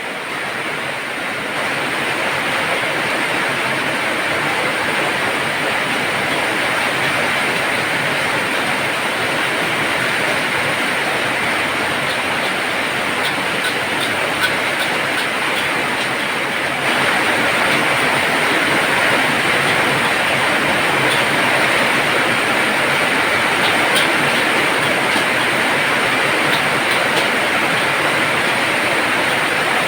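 Heavy rain pouring down, a steady hiss with scattered drop ticks that grows louder about a second and a half in and again about seventeen seconds in.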